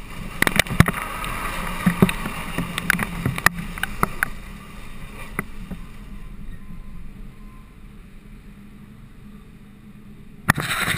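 A pickup truck's engine running, with a string of irregular clicks and knocks over the first few seconds, then quieter; a sharp knock near the end.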